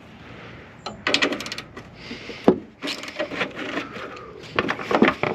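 Metal hand tools clicking and knocking against the alternator's tensioning nut as it is worked loose, with a quick run of clicks about a second in and several sharper knocks after.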